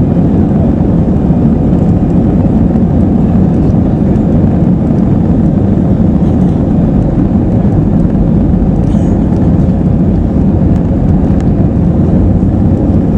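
Steady, deep cabin noise of an Airbus A320-214 in flight: air rushing past the fuselage over the hum of its CFM56 engines, unchanging throughout.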